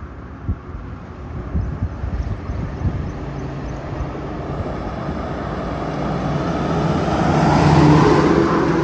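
A Tata heavy truck's diesel engine and tyres approaching along the highway, growing steadily louder and passing close near the end.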